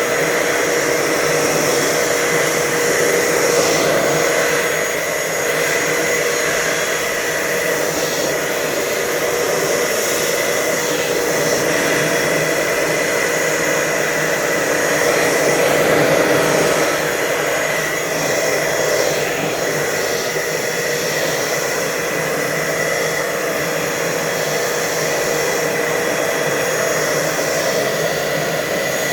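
Hoover Total Home Pet vacuum cleaner running steadily with a rush of air through its hose and a steady whine. The suction is being measured with an anemometer for an airflow test.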